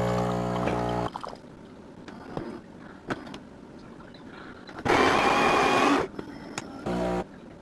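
Philips 3200 LatteGo super-automatic espresso machine running in sped-up, cut-together footage, its sound warped by the speed-up: its pump hums and stops about a second in, clicks follow, a loud one-second burst of noise comes around five seconds in, and the hum returns briefly near the end.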